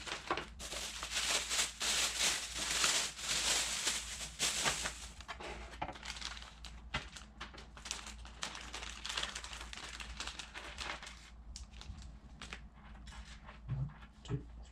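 Plastic packaging crinkling and rustling as it is handled, dense for the first five seconds, then thinning to scattered small clicks and rattles.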